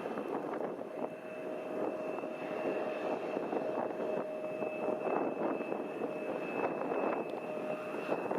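Jet engines of a Fuji Dream Airlines Embraer 170 airliner, running with a steady whine. A high tone holds throughout and a lower tone joins about a second in, over a heavy rush of strong wind on the microphone.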